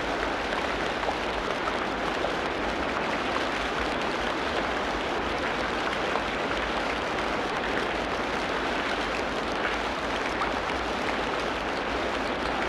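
Tropical rainforest ambience of steady rain falling, an even hiss that keeps the same level throughout.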